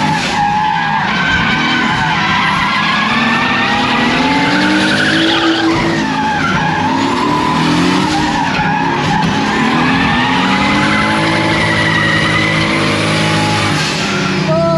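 Turbocharged Toyota 1UZ V8 in a BMW E36 drift car revving up and down repeatedly through a drift run, with the tyres skidding and squealing.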